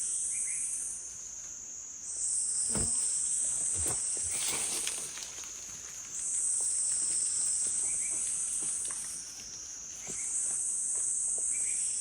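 Insects singing in a high, shrill chorus that swells in bouts of about three seconds with short gaps between them, repeating steadily. A couple of dull knocks and a brief rustle come about three to five seconds in.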